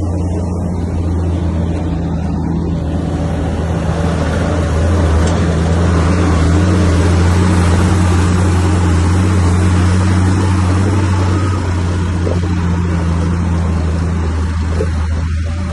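Bulldozer's diesel engine running with a steady low hum, growing louder through the middle and easing off near the end.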